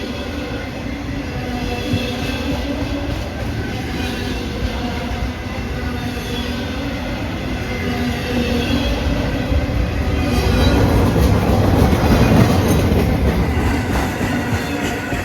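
Intermodal freight cars rolling past at speed: a steady rumble of wheels on rail that swells about ten seconds in and eases toward the end.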